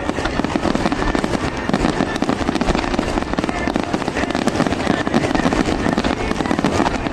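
Aerial fireworks going off in a dense, unbroken barrage of rapid crackling and popping.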